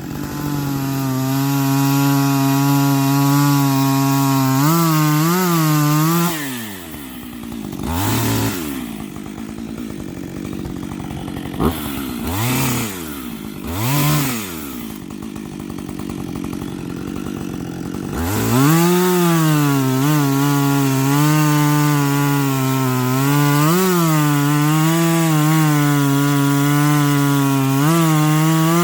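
Chainsaw cutting firewood, its engine held at high revs in the cut. About six seconds in it drops to idle and is blipped a few times, then goes back into a long cut for the rest.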